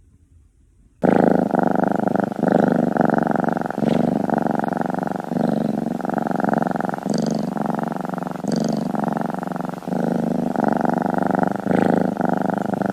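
Domestic cat purring loudly, close up: a steady rapid rumble that rises and falls with each breath. It starts abruptly about a second in.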